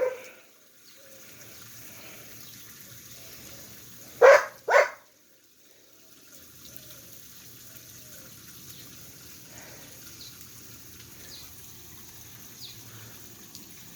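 A dog barking twice in quick succession about four seconds in, over steady outdoor background noise, with faint short high chirps later on.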